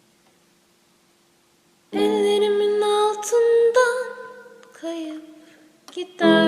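A woman's voice singing the opening phrases of a Turkish pop song, unaccompanied, after about two seconds of near silence; accompanying instruments come in with a strong chord near the end.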